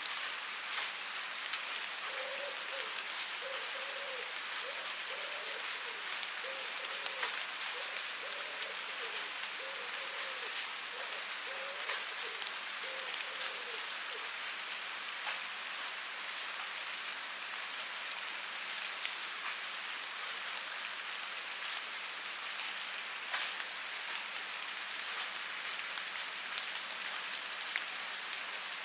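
Steady rain falling, with single louder drops ticking here and there.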